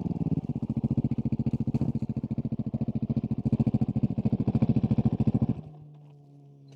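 Husqvarna 701 SM's single-cylinder engine with a Leovince slip-on exhaust idling with an even beat of exhaust pulses, then cut off about five and a half seconds in, leaving a faint hum.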